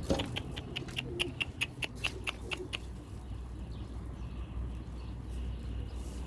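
Pigeons at a loft: a short low coo about a second in, over a run of quick light ticks, about five a second, that stops after nearly three seconds. A faint steady hum follows.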